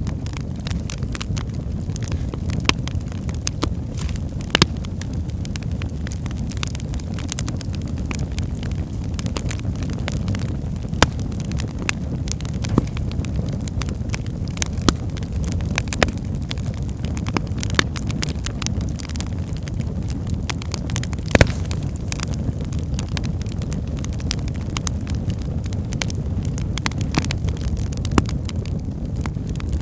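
Wood logs burning in a fireplace: a steady low rumble of the flames with frequent small crackles and a handful of louder pops, the loudest about two-thirds of the way through.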